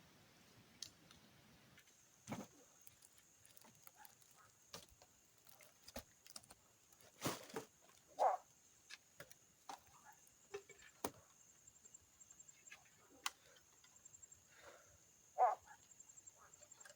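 Scattered sharp clicks and knocks, a few louder, over a steady high insect trill that starts about two seconds in.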